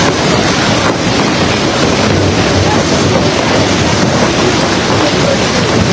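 Heavy storm rain pouring down in a loud, steady rush, with wind buffeting the microphone.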